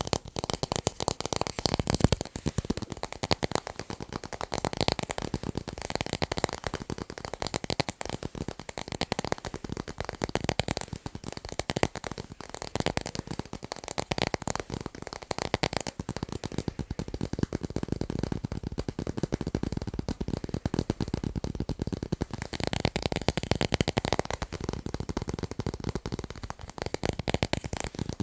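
Fast, continuous tapping on tape: a dense run of quick, crackly taps with no pause.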